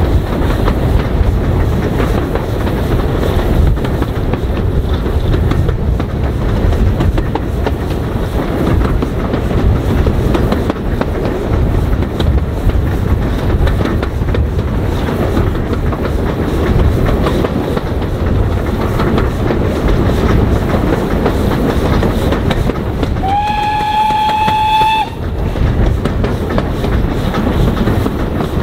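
Train running with a steady rumble and rail noise. About 23 seconds in comes a single whistle blast that rises briefly at its start and then holds for under two seconds.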